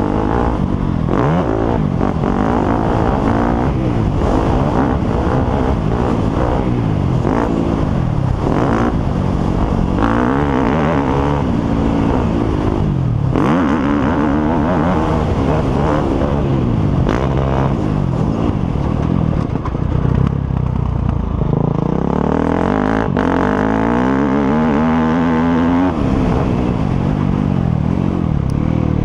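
Several motocross bikes' engines revving at once, their pitch rising and falling continuously and overlapping.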